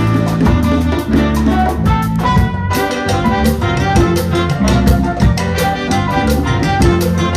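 A Latin big band playing live in a salsa style: a horn section of trumpets, trombones and saxophones over congas, timbales, drum kit, piano and bass, with a steady, busy percussion rhythm.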